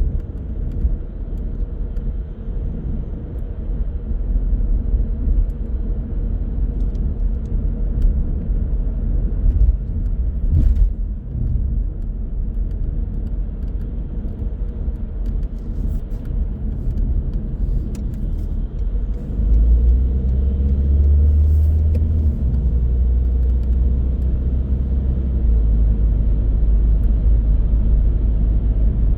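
Car on the move: a steady low rumble of engine and road noise, growing louder about two-thirds of the way through.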